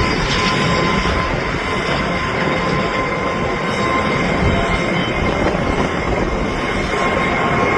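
Jet airliner engines running, a steady roar with a faint high whine held through it.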